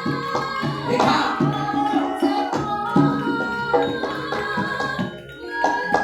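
Javanese gamelan ensemble playing: ringing metallophone notes over drum strokes, with a brief splash of noise about a second in.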